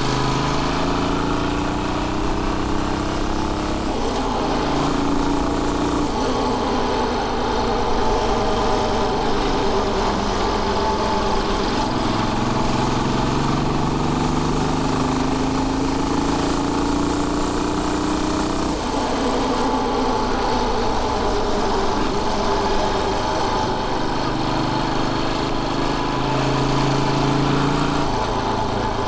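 Royal Enfield Bullet 500's single-cylinder engine running under way. Its pitch climbs as the bike accelerates and drops sharply at gear changes, about four, six and nineteen seconds in and again near the end.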